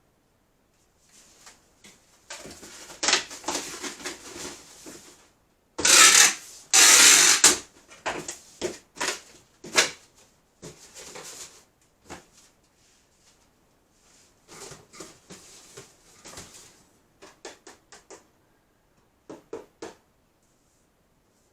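Irregular rustling, scraping and clicking handling noises, with two loud scraping bursts about six and seven seconds in.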